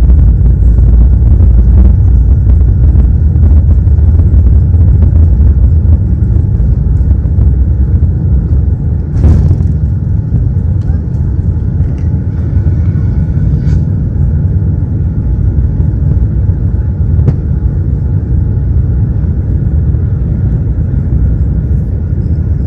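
Boeing 787 Dreamliner's engines and airflow heard from inside the cabin during takeoff and climb: a loud, steady low rumble that eases slightly after about six seconds. A single sharp click about nine seconds in.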